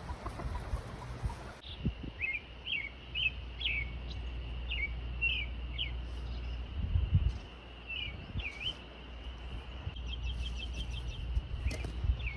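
Small birds chirping: a run of short rising and falling chirps, a couple more later, and a quick rapid trill of notes near the end, over a steady low rumble.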